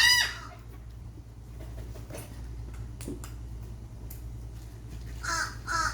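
Seagulls calling: one call right at the start, then a quieter stretch over a low steady background hum, and two short calls near the end.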